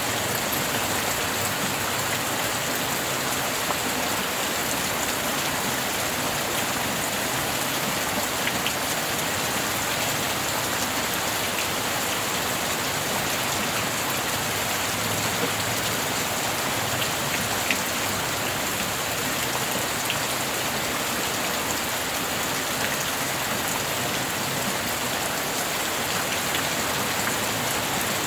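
Steady rain falling, an even hiss with occasional single drop ticks.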